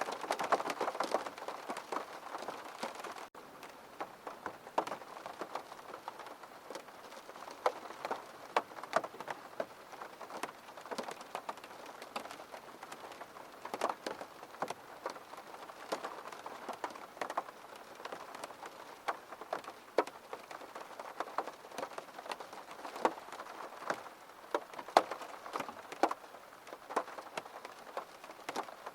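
Rain falling on a window pane: a steady patter with many irregular sharp drop ticks. It gets a little quieter about three seconds in.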